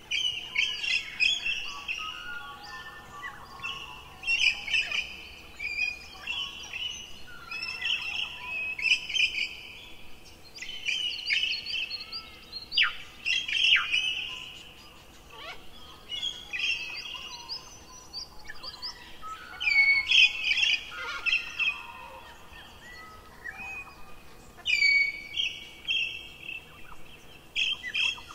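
Songbirds chirping and singing, short high calls repeating every second or two, several phrases overlapping.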